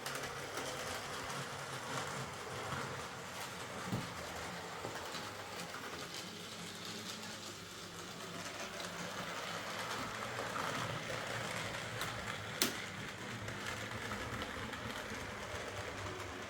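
Hornby OO-gauge Class A4 Mallard model locomotive running around a layout, its tender-drive motor giving a steady whirr, with light clicks from the wheels on the track and one sharper click about three-quarters of the way through.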